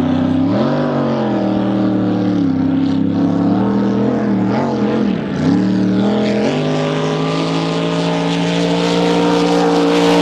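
Drag boat engine running with its speed rising and falling in a few throttle blips, then held steady at a higher speed for the last few seconds.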